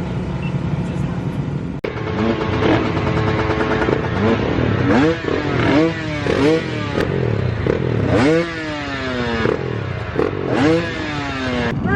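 A steady low engine hum for about two seconds, then several dirt bike engines revving, their pitch climbing and falling again and again as the bikes rev up and shift.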